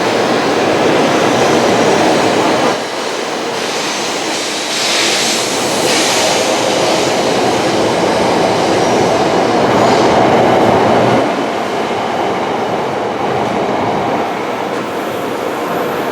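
Tokaido Shinkansen train moving along the station platform: a steady rumble of wheels on rail, with brief higher-pitched noise about five and again ten seconds in.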